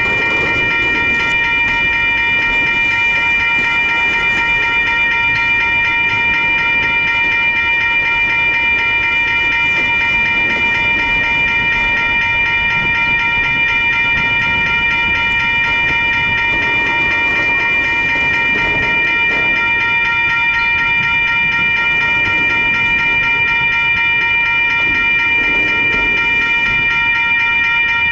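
Freight train's double-stack container cars rolling through a grade crossing: a steady low rumble with soft wheel clatter swelling as each set of wheels passes. Over it runs a continuous high ringing tone, the crossing signal's bell.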